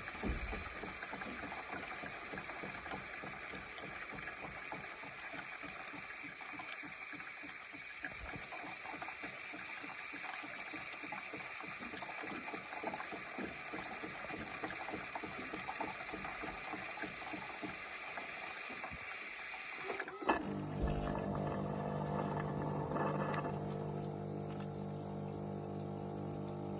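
MaxiBev BTC-10 bean-to-cup coffee machine running the fresh-water rinse of its milk foaming system: a steady mechanical buzz with water moving. About twenty seconds in, a click and a change to a lower, steadier pump hum, which then stops suddenly.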